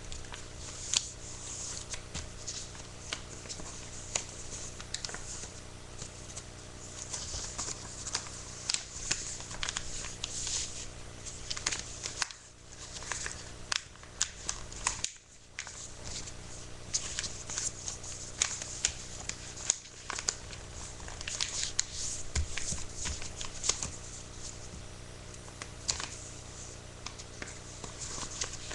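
A sheet of paper being handled and folded: irregular rustling and crinkling with sharp creasing clicks, over a steady low electrical hum.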